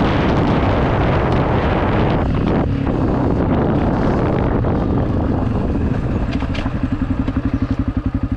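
Dirt bike engine running hard, then easing off into a steady pulsing idle in the last couple of seconds before it cuts off suddenly.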